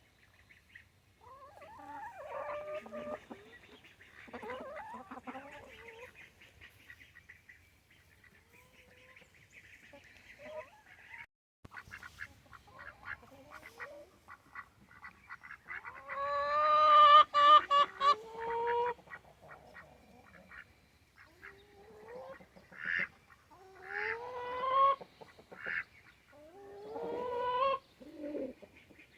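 Backyard poultry calling: a string of separate, drawn-out calls, several rising in pitch, loudest about halfway through, with fainter high peeps near the start.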